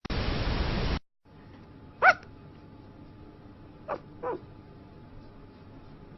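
About a second of loud hiss-like noise, then a dog giving short yips in its sleep: one about two seconds in, and two softer ones close together near four seconds.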